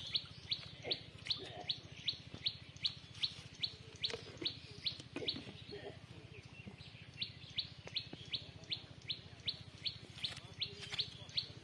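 A bird calling over and over: a short, high, falling chirp repeated very evenly about two and a half times a second, breaking off briefly about halfway through.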